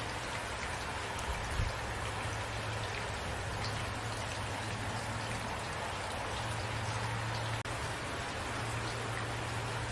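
Steady rain falling, with scattered drop ticks and a low, even rumble underneath.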